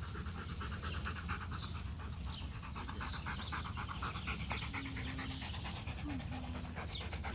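A Rottweiler panting fast and steadily, worn out and hot after a long game of fetch.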